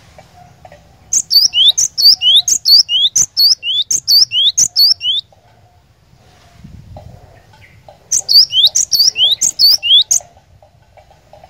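Glatik batu (cinereous tit) singing in two loud bursts of rapidly repeated high, sweeping whistled notes, with a pause of about three seconds between them. A faint, steady chattering runs underneath.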